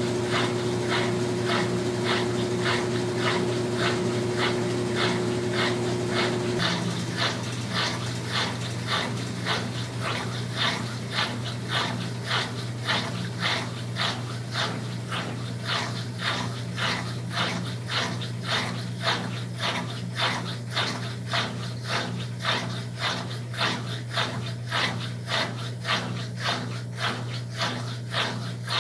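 Brastemp Tira Manchas Pro 12 kg top-load washing machine running: a steady motor hum under a rhythmic whooshing about twice a second. A higher steady tone in the hum stops about seven seconds in.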